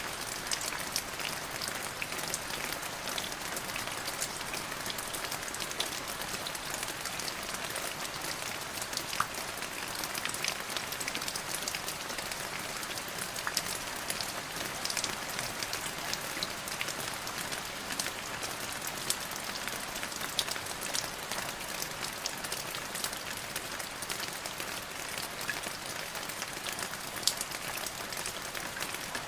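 Steady rain falling on a surface, a continuous hiss with many individual drops pattering sharply throughout.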